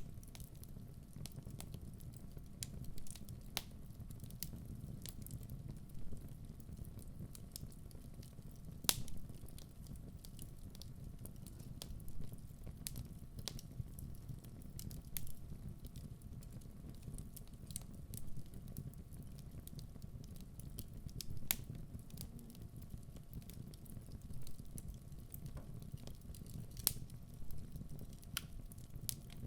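Wood fire burning in a fireplace: a steady low rumble of the flames with irregular sharp crackles and pops from the logs, a few louder pops standing out.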